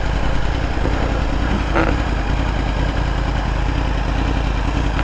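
Vehicle engine running steadily with a low, even rumble, near idle.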